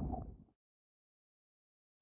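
Low rumble with faint crackles from a lava flow, fading out within the first half second, then dead digital silence.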